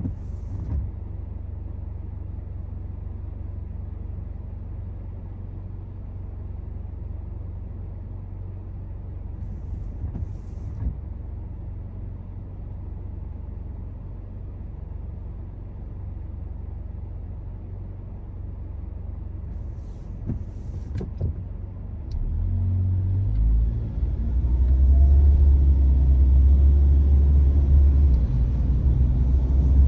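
Car driving, heard from inside: a steady low rumble of engine and road noise. From about three-quarters of the way through it grows louder, with rising engine tones as the car accelerates.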